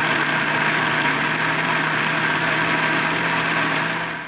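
Electric blender running at full speed, grinding fresh corn kernels with a little water into a thick corn liquid for canjica: a loud, steady grinding noise over a steady motor hum, winding down at the very end.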